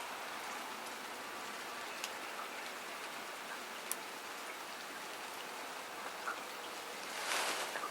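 Steady rain falling in a garden, with scattered drops ticking sharply on surfaces. A brief louder rush of noise comes near the end.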